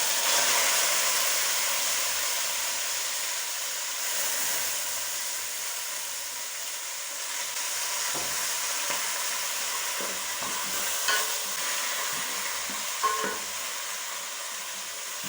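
Chicken sizzling in a hot pot just after stock is poured in: a steady hiss, loudest at first and slowly dying down, with a few light knocks of a stirring spoon against the pot.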